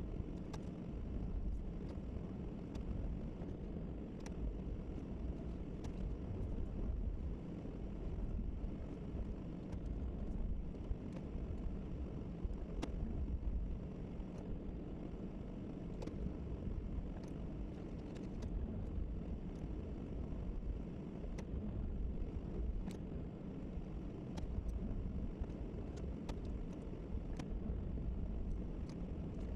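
Snowplow pickup truck's engine running with a steady low rumble, with faint clicks scattered throughout.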